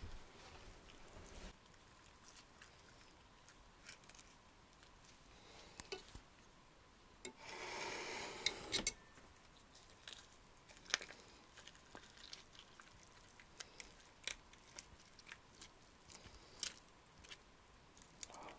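Someone quietly eating stove-roasted chicken: soft chewing and scattered small clicks, with a short rustling, tearing noise about halfway through.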